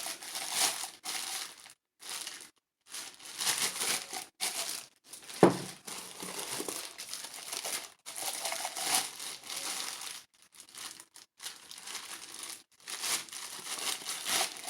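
Packaging rustling and crinkling in irregular bursts as items are handled and unpacked, with one sharp knock about five and a half seconds in.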